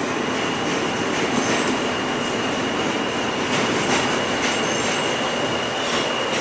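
New York City subway train running, heard from inside the car: a steady rush of wheel and track noise with a thin, steady high-pitched whine held over it for most of the time.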